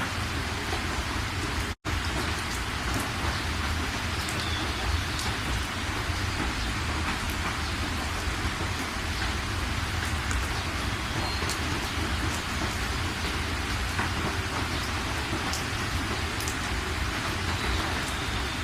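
Steady rain falling, with fine drop ticks over an even rush, cut by a momentary gap of silence about two seconds in.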